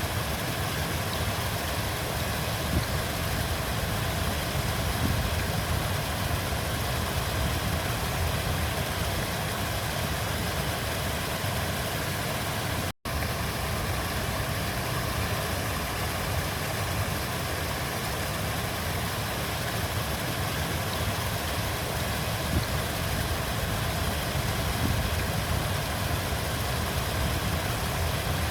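River water flowing steadily, an even rushing with no breaks except one split-second cut-out about halfway through.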